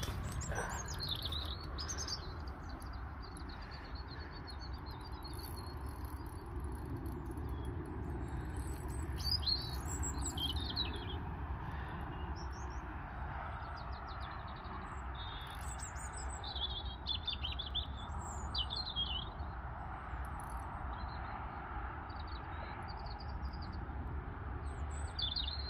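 Small songbirds chirping on and off, busiest about ten seconds in and again a little past the middle, over a steady low background rumble.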